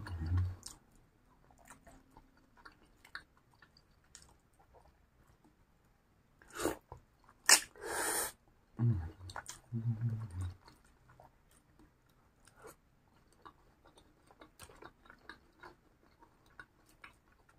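Close-up chewing of chewy fried tapioca-and-egg skewers (cilor) in sauce, with small wet mouth clicks. A few sharp breath-like noises come about seven to eight seconds in, followed by two short low hums.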